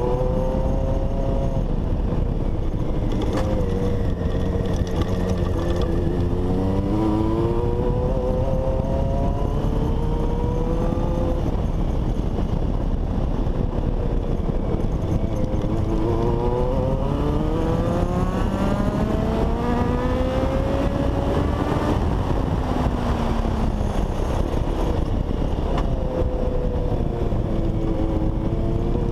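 Honda CBX 750's inline-four engine on a test ride after being worked on, pulling hard through several rising rev runs, each one dropping back at a gear change or when the throttle eases, then climbing again.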